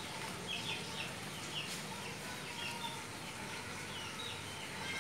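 Small birds chirping: many short, high notes, mostly falling in pitch, scattered irregularly over a steady background hiss.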